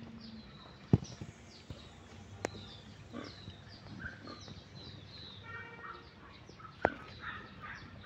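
Small birds chirping around a pond: many short, falling chirps repeating throughout, with a few sharp clicks about a second in, a little later, and near the end.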